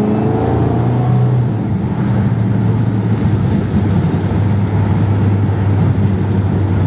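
1957 Ford Thunderbird's Y-block V8 under a burst of hard acceleration: the engine's pitch climbs through the first second or so, then settles into a steady drone. It pulls instantly without stumbling, running on only the primary two barrels of its carburettor.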